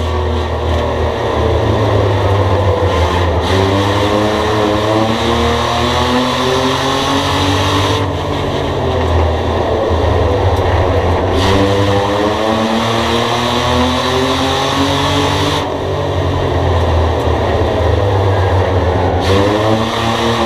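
Race car engines running hard around a short oval track, the pitch climbing as they accelerate and dropping back about every seven or eight seconds, three or four times over.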